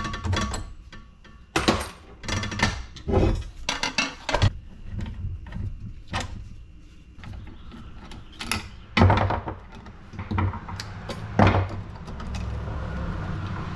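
Metal parts of a scrap light fixture knocking, clinking and rattling as it is taken apart by hand, in an irregular string of sharp knocks. A low steady hum comes in near the end.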